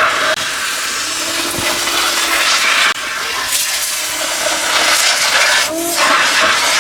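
Car-cleaning equipment hissing steadily, with a few faint short tones and a slight dip in level about three seconds in.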